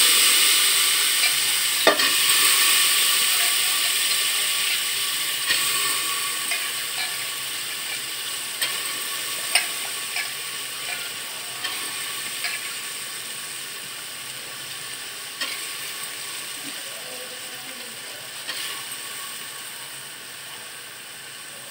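Washed, still-wet dal frying in hot oil in a pressure cooker: a loud sizzle that slowly dies away, with scattered clicks and scrapes of a steel spoon stirring against the cooker.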